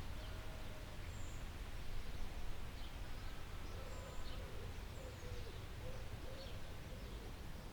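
Forest ambience: several birds calling, with scattered short high chirps and a fainter, lower wavering call in the middle, over a steady low rumble.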